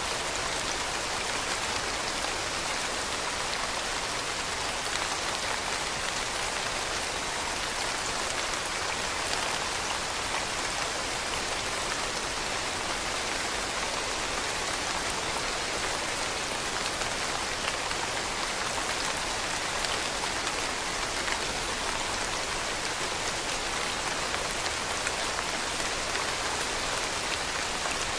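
Steady rain pattering on leaves, a dense even hiss made of many small drop impacts.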